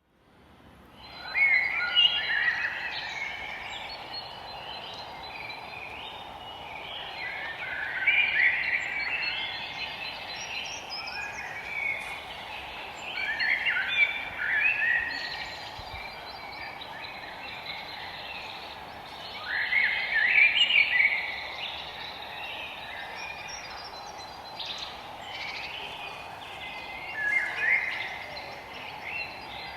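Forest birds singing: a bright song phrase recurs about every six seconds over a steady background hiss. Fades in over the first second or so.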